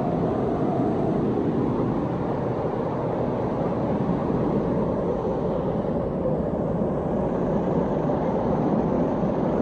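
Waterfall pouring into a creek: a steady, unbroken rush of water.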